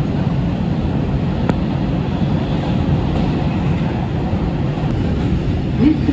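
NYC Subway R142 train running at speed between stations, heard from inside the car: a loud, steady rumble of wheels on rail, with a single sharp click about a second and a half in.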